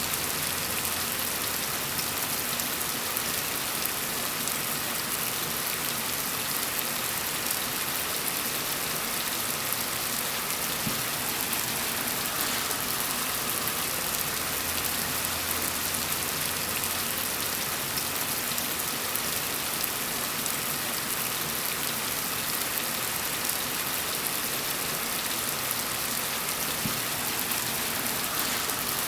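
Steady rain falling on a surface: a dense, even hiss of many drops with fine patters, strongest in the high range.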